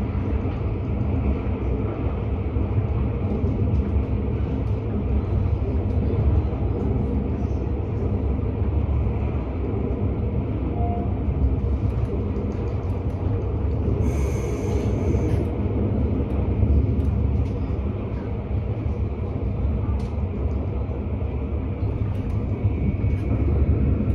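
Elron electric train (Stadler FLIRT) running along the line, heard from inside the passenger car: a steady low rumble of wheels on rail and running gear. A brief hiss comes about fourteen seconds in.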